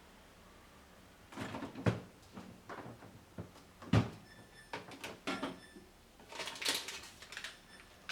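Household items and food containers being handled and set down in a kitchen: a run of knocks, rattles and clatter starting about a second and a half in. There is a sharp knock about two seconds in, a louder one about four seconds in, and a light clink that rings briefly between about five and seven seconds.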